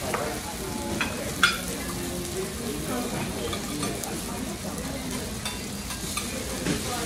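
Scallops, prawns and greens sizzling and crackling on a hot steel teppanyaki griddle, with one sharp metallic clink about one and a half seconds in.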